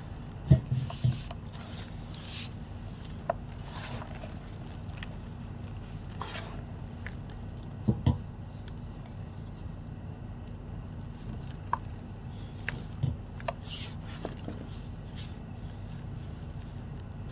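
White gym chalk crunching: scattered sharp cracks, the loudest about half a second in and a quick pair around eight seconds, with fainter crumbly ticks in between.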